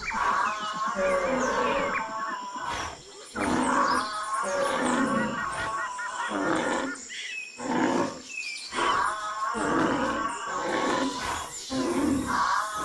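Animal roars and growls in a string of loud bursts, about one a second.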